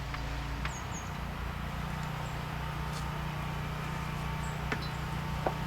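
A steady low hum, with a few faint clicks and two brief high chirps.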